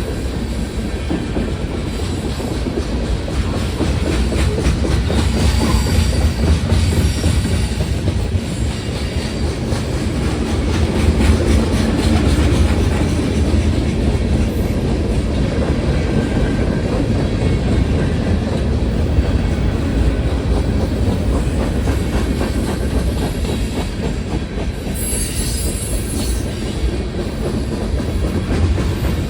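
Freight train rolling past at close range: steel wheels clattering over the rails with a heavy low rumble, and a brief high-pitched wheel squeal near the end.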